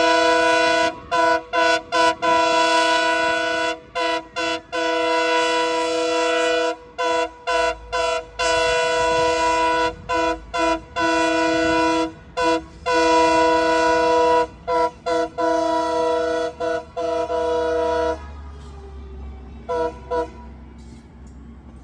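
Train horn sounding a long series of blasts, some long and some short, with brief gaps between them, as a several-note chord. The horn stops about 18 seconds in, two short toots follow near 20 seconds, and then a low rumble remains.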